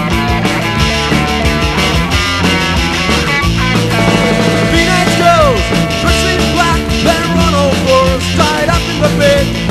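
Punk rock recording: a full band with electric guitar, bass and drums playing at a steady beat. A gliding, wavering melody line comes in on top about four seconds in.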